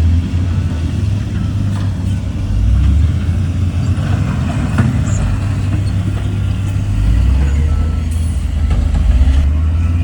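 Heavy earthmoving diesel engine running loud, a deep steady rumble, with a few sharp metallic knocks.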